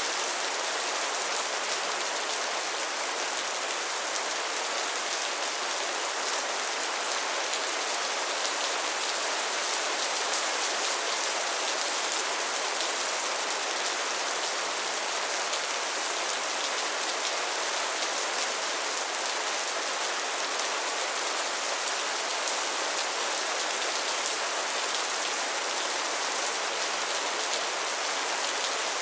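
Steady rain falling, a continuous even hiss of drops with faint fine pattering and no thunder.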